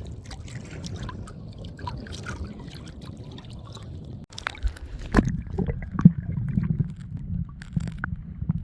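Wind rumbling on the microphone, with scattered clicks and handling knocks. It briefly cuts out just after four seconds, then comes back louder with stronger knocks.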